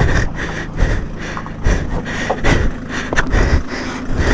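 An off-road vehicle's engine running steadily, with irregular rushing bursts over it several times a second.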